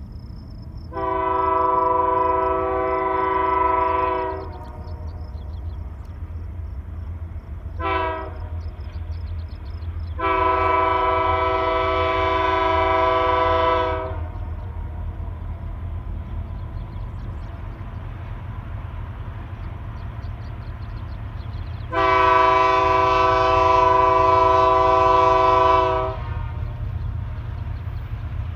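Air horn of BNSF GE C44-9W locomotive 4717 sounding four blasts: a long one, a short one, another long one, and after a pause a final long one near the end, over the train's steady low rumble.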